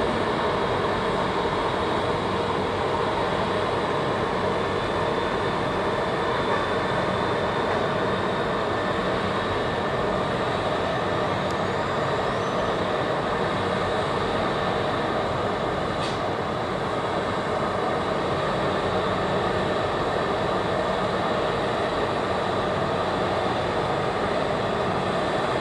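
A train running steadily: an even, unchanging rumble and hum with faint steady tones, and a single light click about two-thirds of the way through.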